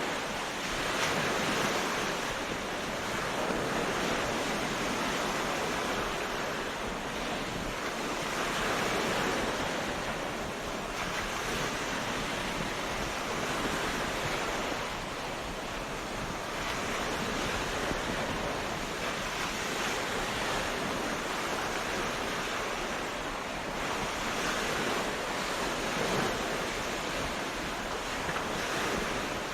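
Sea waves breaking on a beach: a continuous surf wash that swells and eases every few seconds.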